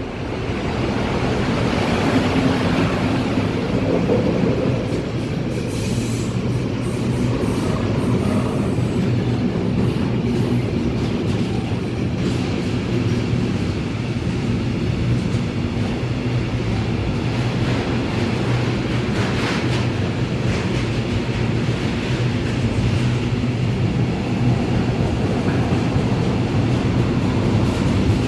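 Train passing close by on the track: a loud, continuous rumble of wheels on rail with steady low tones, swelling in the first couple of seconds and holding for the rest, with a few wheel clicks along the way.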